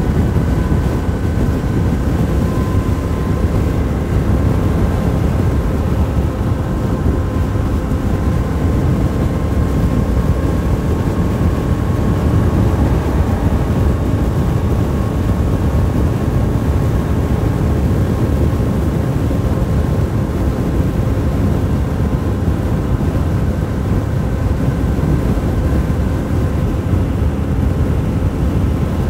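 Motorcycle riding at a steady speed, the engine's drone holding an even pitch with no revving, under a rushing wind noise.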